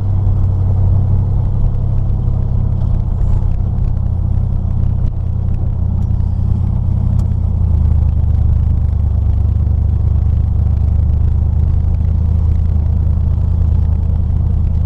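Chevrolet S10 pickup with a newly swapped engine driving on a test cruise, heard from inside the cab: a steady low engine drone whose pitch drops slightly about halfway through.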